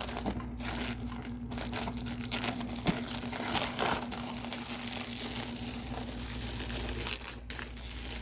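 Plastic packaging being crinkled and torn off a new RC rally car, a continuous crackling rustle with small sharp snaps, over a faint steady hum.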